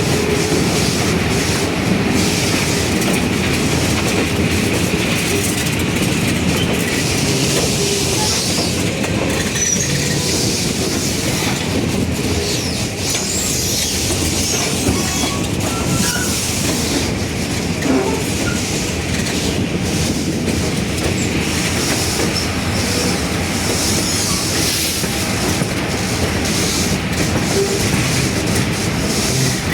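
Passenger train cars rolling along the track: a steady rumble of wheels on rails with clickety-clack, and a few brief high wheel squeals.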